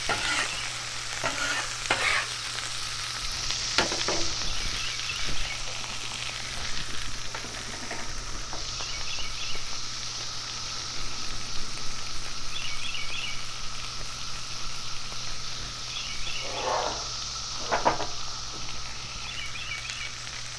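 Chicken wings sizzling and popping in a pool of oil on a Blackstone steel griddle, a steady frying hiss. A metal spatula scrapes across the griddle a few times, near the start and again near the end.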